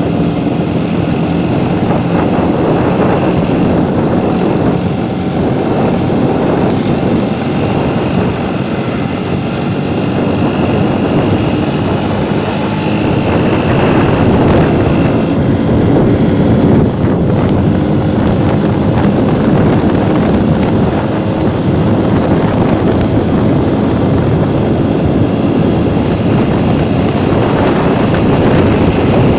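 Aprilia Tuono 125's single-cylinder engine running under way, nearly buried under a steady heavy rushing noise, with the engine's hum clearest in the first few seconds.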